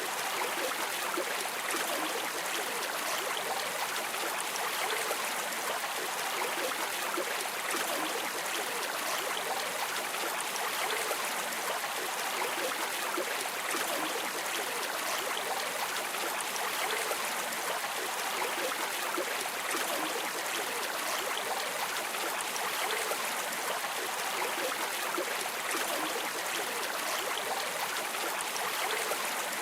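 Stream water running and trickling steadily, an even rush with fine gurgling detail.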